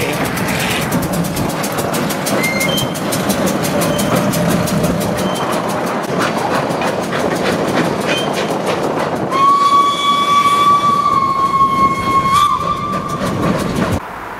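Short train of vintage four-wheeled goods wagons rolling slowly past, wheels clicking in a steady run over the rail joints. About nine seconds in, the locomotive sounds one long, loud whistle blast on a single steady note, lasting about four seconds and cut off abruptly near the end.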